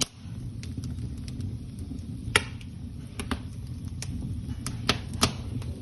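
Wood fire burning in an open corner fireplace, crackling with irregular sharp pops over a steady low rumble.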